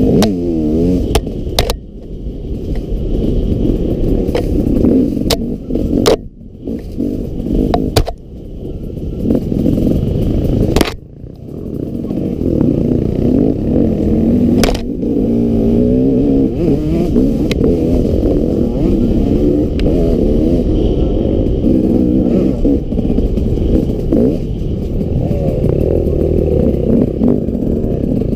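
Enduro dirt bike engine revving up and down as it rides a rough track, with sharp knocks and rattles over bumps. The engine drops off briefly a few times in the first half, about 2, 6, 8 and 11 seconds in, then pulls steadily.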